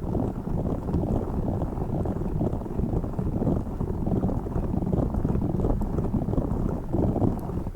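Tiny spiky orbeez ball rubbed against the microphone, giving a dense, continuous low rumbling rustle with rapid flutter and no pauses.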